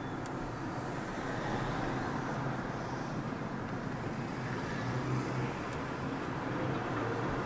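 A car driving along a road: steady engine and tyre noise with a low hum.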